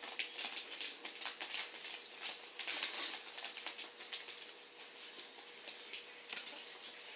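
A cat's paws pattering and scrabbling on the floor in quick, irregular scratchy taps as it runs round in tight circles.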